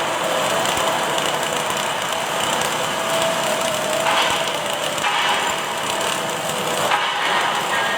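Automatic welding machine running in a factory: a continuous, even hiss with a faint steady hum under it.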